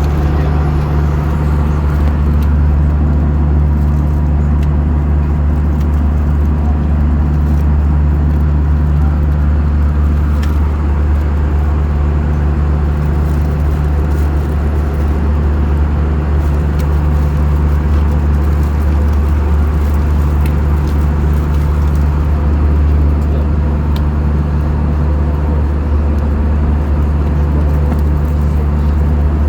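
Steady low drone inside the passenger cabin of an Airbus A320 in cruise, the engines and the rush of air along the fuselage blending into one unbroken rumble.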